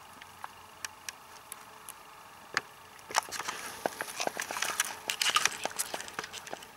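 Close rustling and crackling of grass and plants being brushed or stepped through: scattered light clicks at first, then a denser stretch of rustling from about three seconds in that eases off near the end.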